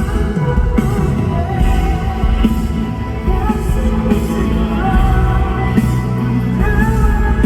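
Live concert music: a male solo singer's voice gliding over a loud backing track with heavy, booming bass.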